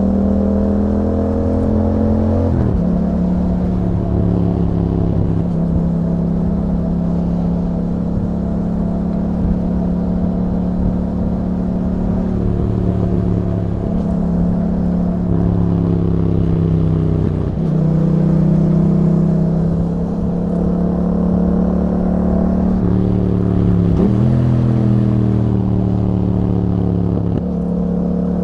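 2021 Yamaha MT-07's 689 cc parallel-twin engine running under way through an Akrapovic exhaust with YAHOM dB killers. The engine note rises and falls with the throttle, and its pitch jumps abruptly about eight or nine times as gears change.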